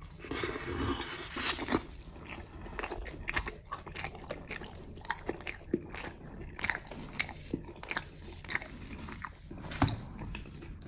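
Close-up chewing of a bite of Domino's cheeseburger pizza: a bite near the start, then steady chewing with many short, irregular wet clicks and smacks.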